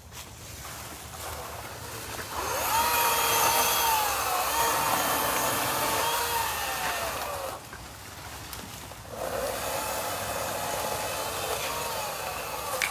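A power tool's motor running twice, with a gap of about a second and a half between the runs. It speeds up to a steady high whine with a rushing sound under it, and its pitch falls as it slows near the end of each run.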